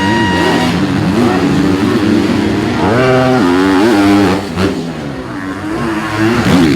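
Motocross motorcycle engines revving, more than one at once, their pitch climbing and dropping again and again with throttle and gear changes. The sound is somewhat quieter after about four seconds.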